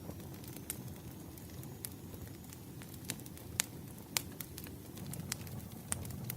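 Burning firewood crackling: sharp, irregular pops and snaps, the loudest a little past the middle, over a low steady rumble of the flames.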